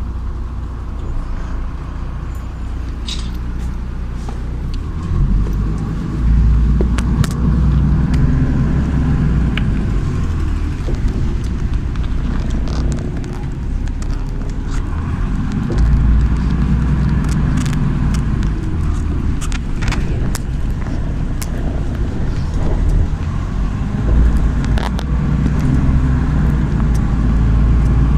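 MAZ-103 city bus's diesel engine running as the bus drives, a steady low rumble that swells as it pulls away about five seconds in and again later on, with scattered light clicks and rattles over it.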